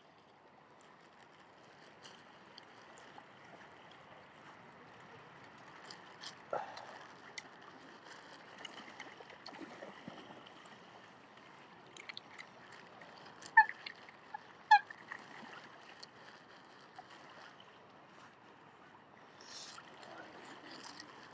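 Lakeside ambience with scattered small ticks and splashes. A little past the middle come two short, sharp calls about a second apart, from the waterbirds being fed.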